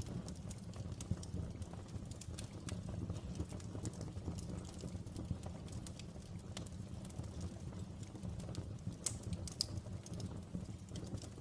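Outdoor wood fire burning: a steady low rumble of flames with irregular sharp crackles and pops from the burning wood, a few louder pops near the end.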